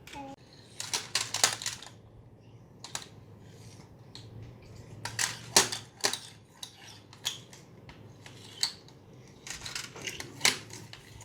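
A baby's toy airplane being handled and knocked about, giving bursts of clicks and clatters with single knocks in between.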